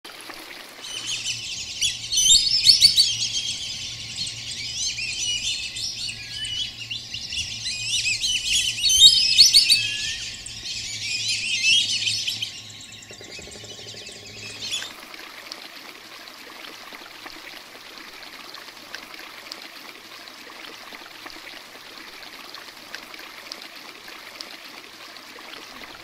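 Birds chirping, many calls overlapping, for about the first fifteen seconds. Then the sound cuts to a steady faint hiss.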